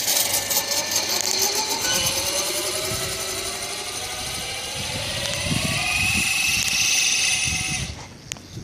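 Modded Razor MX500 electric dirt bike's Castle 2028 brushless motor, geared down through the drive, whining under throttle while riding. Its pitch falls and then climbs again, and the sound drops away suddenly about eight seconds in.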